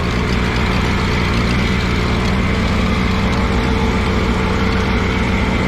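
Allis-Chalmers G tractor's small four-cylinder Continental gasoline engine running steadily at a constant speed while the tractor is driven through a turn.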